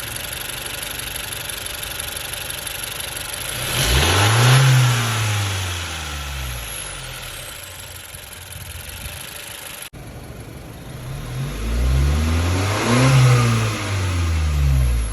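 2019 Honda Civic's 1.5-litre turbocharged four-cylinder idling and revved twice, each time climbing and falling back to idle; the second rev has two peaks. As the revs drop, a faint thin high whistle, a 'TSsssss' like a bird's whistle, falls in pitch: the sound whose normality the owner questions on a stock car.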